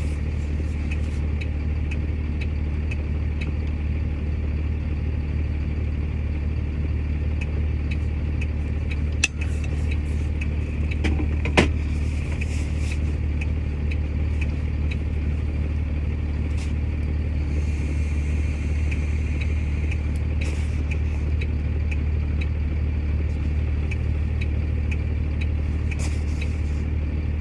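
Tow truck engine idling steadily, heard from inside the cab, with a light regular ticking over it and two sharp clicks about nine and twelve seconds in.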